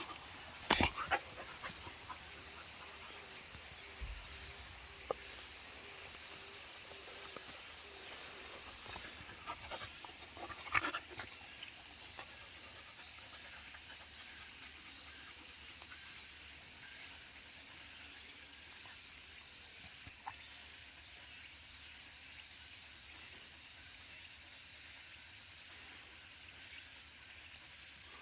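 Jindo dog panting in a steady rhythm, about two breaths a second, under a steady high hiss. Two brief louder rustles come about a second in and near eleven seconds.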